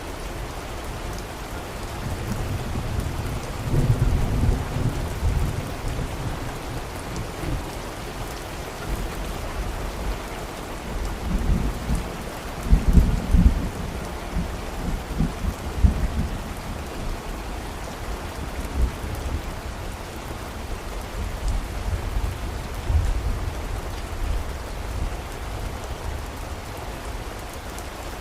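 Steady rain falling, with low thunder rumbling a few seconds in and again, louder, near the middle.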